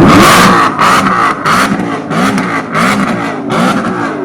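Maserati V8 engine revved hard in quick repeated blips, about six in four seconds, each one rising and falling in pitch.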